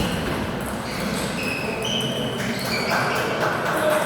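Table tennis balls being hit and bouncing on tables, short ringing ticks every second or so.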